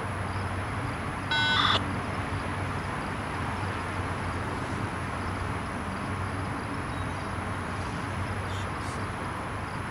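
Distant freight train of tank cars rolling past, heard as a steady rumble and hum mixed with city traffic noise. About one and a half seconds in, a brief high squeak of several tones sounds over it, the loudest moment.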